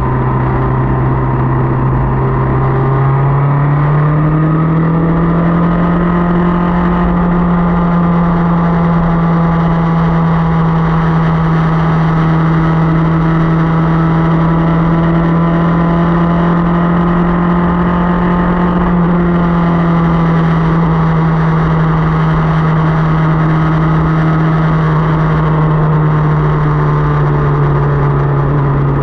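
Motorcycle engine running under way. Its pitch rises a few seconds in as the bike speeds up, holds steady, and then drops back after about twenty seconds as it eases off.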